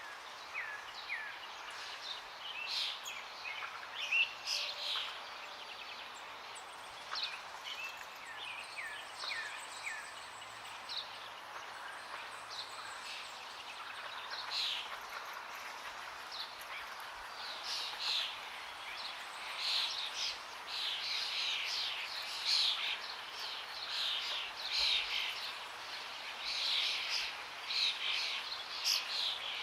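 Forest birdsong: many small birds chirping and calling over a steady hiss of running water, the calls growing busier in the second half.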